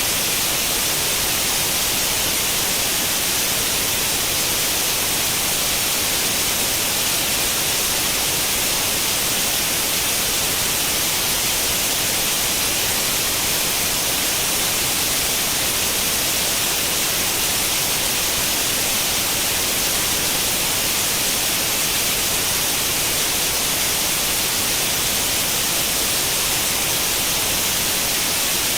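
White noise like the static of an old tube television tuned to no channel: a steady, even hiss that is strongest and brightest in the high treble.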